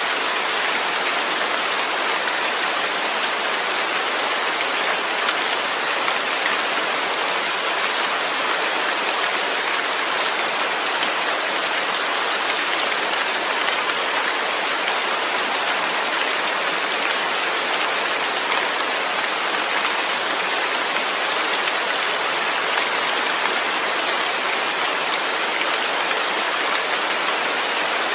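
Steady rain falling and pattering on surfaces, an even hiss with no pauses or changes.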